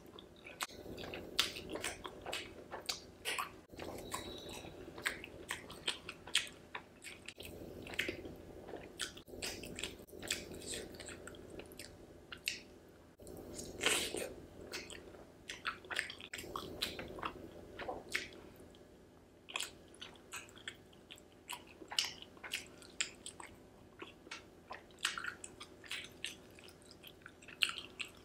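Close-miked mouth sounds of someone eating steamed paneer momos with a creamy sauce: soft, wet chewing with many short lip smacks and clicks.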